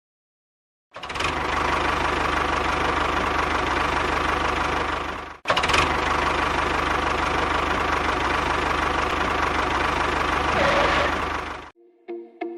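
Small motor of a home-built mini tractor running steadily. It starts about a second in, breaks off for a moment around the middle, resumes and stops shortly before the end.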